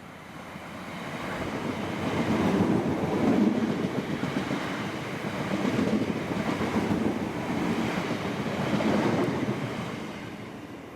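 South Western Railway passenger train running past on the station tracks. Its noise rises over the first couple of seconds, stays loud for about seven seconds with a few swells as the carriages go by, then fades near the end.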